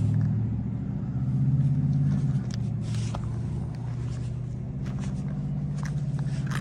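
An engine running steadily at idle, a low hum that swells for about a second near the start, with a few faint clicks.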